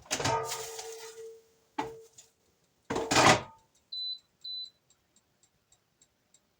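Air fryer basket being pulled out and then slid back in, with a metallic clatter each time and a brief knock in between, followed by two short high beeps as the timer is set.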